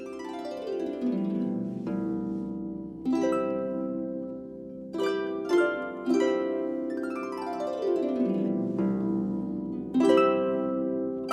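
Harp playing plucked chords and notes that ring on, with two sweeps down the strings, each lasting about two seconds: one at the start and one about two-thirds of the way through.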